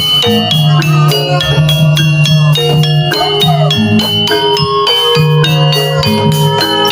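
Javanese gamelan music accompanying a jaranan (jaran kepang) dance: metallophones ring out fast, even runs of struck notes over a sustained low drone.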